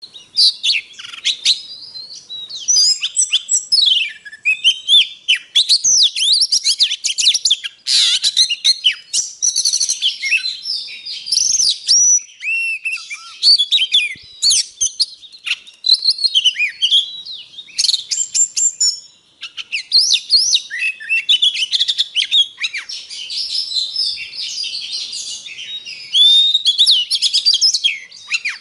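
Oriental magpie-robin singing a long, varied song of clear whistles, glides and rapid chattering notes, with barely a pause. It is a magpie-robin lure song, used to draw or train the birds.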